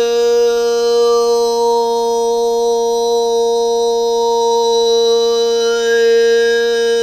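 A steady, loud drone held on one pitch, its upper overtones slowly swelling and fading while the base note stays constant.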